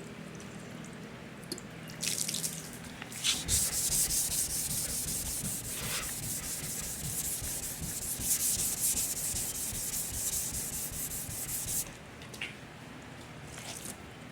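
Wet sanding by hand with 400-grit sandpaper over rattle-can primer and airbrushed paint on a car body, in quick back-and-forth strokes. The sanding starts about two seconds in and stops about two seconds before the end, leaving a few light strokes.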